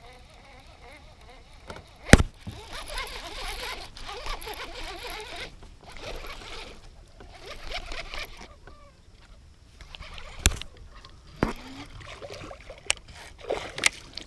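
Scattered sharp knocks on a kayak, the loudest about two seconds in and several more near the end, between stretches of splashing and rustling water.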